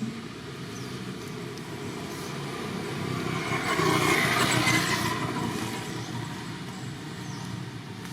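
A road vehicle passing by: a steady running noise that swells to its loudest about four to five seconds in, then fades away.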